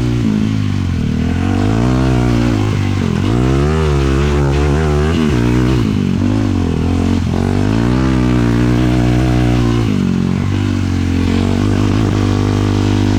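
450cc single-cylinder sport quad engine under way, the revs climbing and dropping again and again through the throttle and gear changes, then running steadier near the end.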